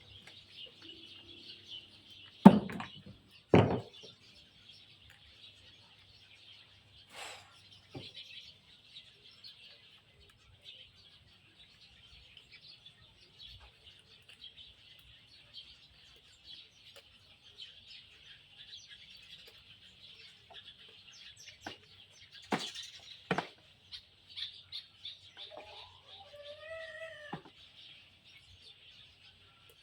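Steady high-pitched chirping in the background, broken by sharp knocks: two close together a couple of seconds in and two more about two-thirds of the way through. Near the end comes a short pitched call that rises and falls.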